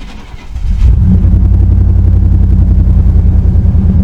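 Pickup truck engine, started off a jump box, cranks and catches just under a second in, then settles into a loud, steady idle. It is said to have a miss in two cylinders that shows under load on the road, but at idle it runs evenly with no audible miss.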